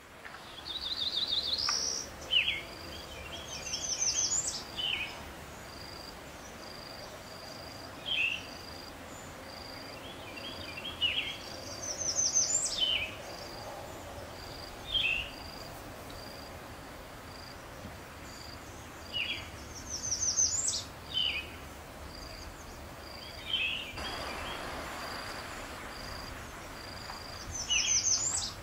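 Bird calls: every few seconds a quick run of rising high chirps and a few short falling calls. Underneath, an insect keeps up a steady high pulsing chirp, about one and a half pulses a second.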